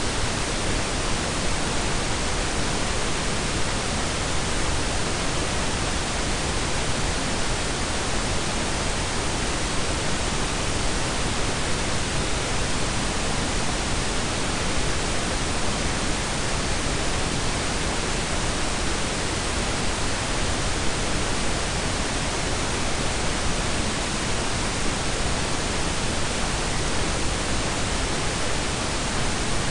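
Synthetic pink and brown noise blended together: a steady, even hiss that does not change.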